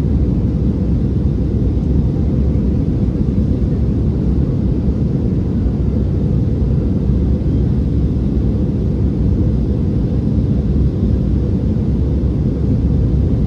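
Airbus A319 cabin noise in flight: a steady, even low rumble of the jet engines and airflow heard from inside the cabin.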